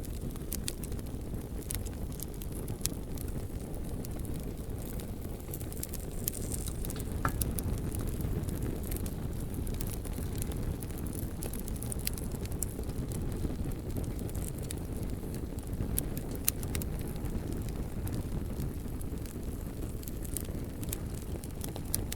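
Bonfire burning: a steady low rush of flame with scattered sharp crackles and pops from the burning logs.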